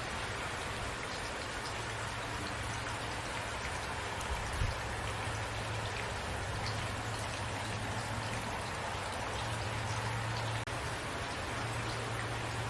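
Steady rain falling, with scattered individual drops ticking against a surface and a low steady hum underneath. The sound cuts out for a split second about ten and a half seconds in.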